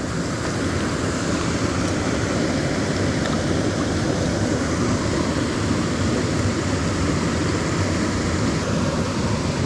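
Steady rush of a mountain stream's water pouring over rocks and small falls, an even hiss with no breaks.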